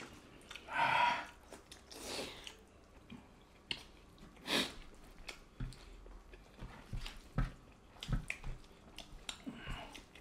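Close eating sounds of people eating rice and curry with their hands: wet chewing, lip smacks and the squish of fingers working the rice. There are a few louder short mouth and breath noises about one, two and four and a half seconds in.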